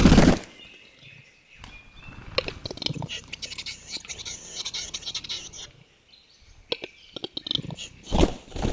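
Male western capercaillie's lek display song: trains of sharp clicks, loud pops near the start and near the end, and a hissing, scraping phrase lasting a few seconds in the middle.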